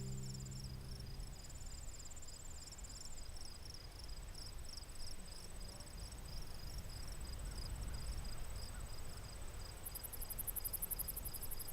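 A last guitar chord fades out in the first second, leaving insects chirping: several pulsing, high trills at different pitches, with a higher and louder trill joining about ten seconds in.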